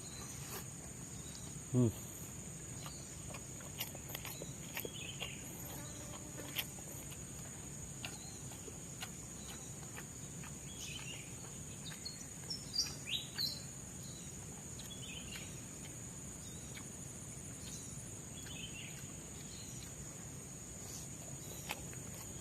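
Tropical forest ambience: a steady, high insect drone and repeated short, falling bird chirps, with scattered small clicks and taps. A brief, louder low sound falls in pitch about two seconds in.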